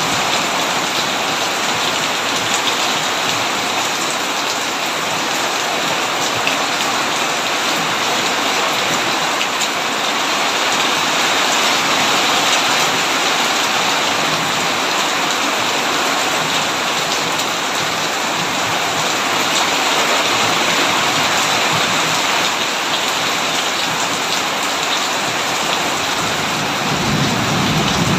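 Heavy rain pouring steadily on a tin roof, a dense unbroken hiss, with a low rumble of thunder swelling near the end.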